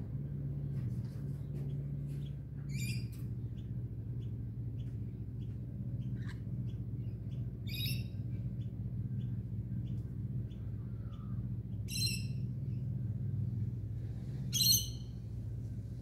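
Birds calling: four short, harsh calls a few seconds apart, the last the loudest, over a faint high chipping repeated about twice a second. A steady low hum lies underneath.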